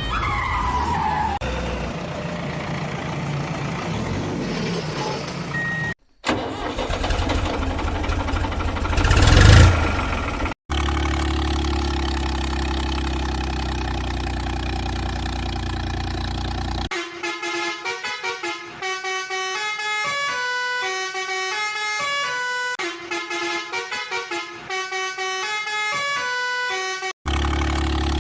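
A string of edited-in vehicle sound effects with hard cuts between them: horn-like sounds and a falling glide, a swell about 9 s in, a steady engine hum, then a simple electronic tune of separate notes for about ten seconds before the engine hum returns.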